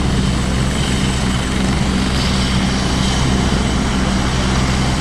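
Rescue helicopter running on the ground close by after landing, a steady low rotor and engine drone with a broad whooshing noise over it.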